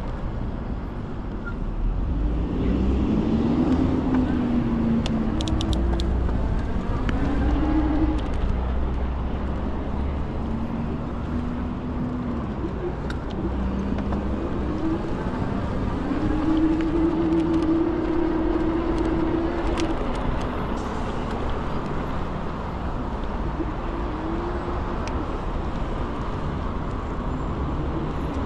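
Ikingi S6 Pro electric scooter being ridden: steady road rumble and wind on the microphone, with a low whine that rises and falls several times. No brake squeal.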